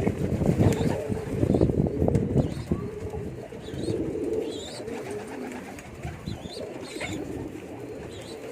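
Domestic pigeons cooing, several overlapping low coos repeating throughout, with short high chirps scattered through the second half.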